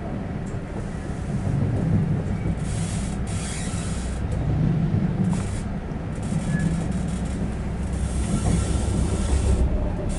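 Passenger train running between stations, heard on board: a steady low rumble of the wheels on the track, with several short bouts of high hiss from the wheels and rails.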